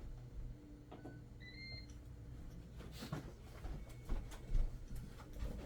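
Faint scattered clicks and light knocks of small parts and tools being handled during an iPad repair, over a steady low hum.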